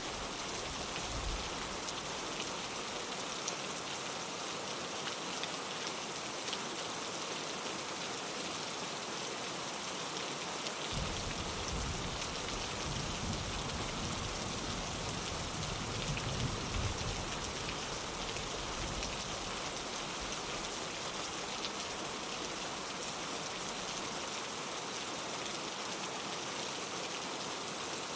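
Steady rain falling on a window, an even hiss throughout. A low rumble of distant thunder swells from about eleven seconds in and fades out around twenty seconds.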